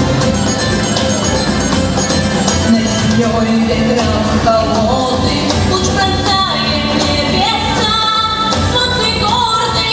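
A girl singing a pop song with instrumental accompaniment, her voice sliding between held notes, most plainly from about halfway through.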